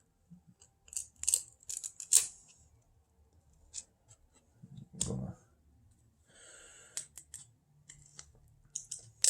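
Trading cards being handled and flipped through by hand: short crisp snaps and rustles of card stock, with a dull bump about five seconds in.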